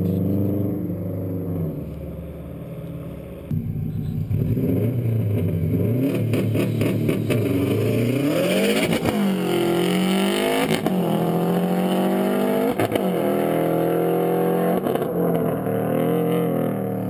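2004 Subaru STi's turbocharged flat-four through a full-titanium Tomei Expreme Ti catback run with no muffler, loud. It eases off briefly a couple of seconds in, then is brought up with the pitch climbing, drops and climbs sharply three times, and holds fairly steady near the end.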